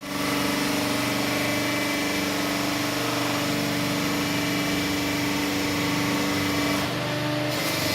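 Hydraulic power unit of a large cardboard baling press running with a steady hum.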